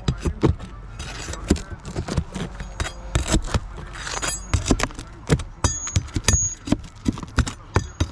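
Metal hand tools knocking and clinking on roofing material in an irregular run of sharp strikes, several a second, some with a brief metallic ring.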